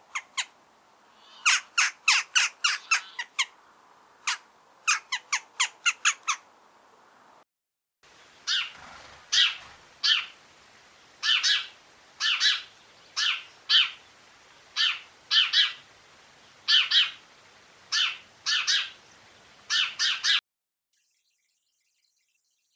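Two separate recordings of birds calling, with a brief silence between them. The first is a run of sharp, quick chirps. The second is a series of harsher, evenly spaced calls, a little under one a second, which cuts off suddenly near the end.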